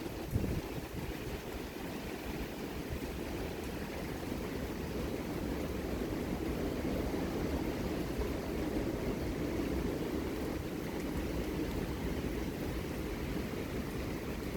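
Strong thunderstorm wind blowing in a steady rush, with low, uneven buffeting on the microphone and a short low thump just after the start.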